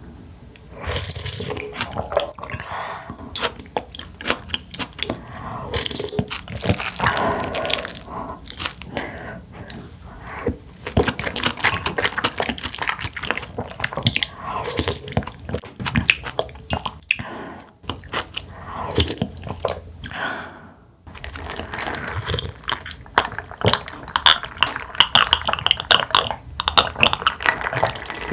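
A person eating close to the microphone: chewing with wet mouth sounds, many small clicks and crunches, and a couple of short pauses.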